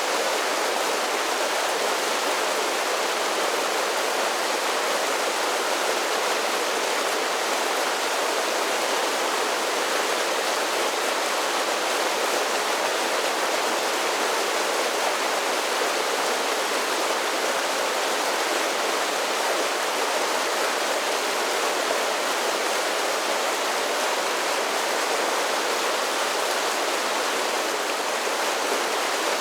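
Mountain creek spilling over a series of small waterfalls: a steady, even rush of water.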